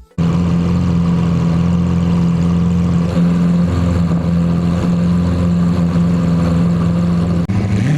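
Car engine running at a steady idle, holding one even pitch, with an abrupt cut near the end.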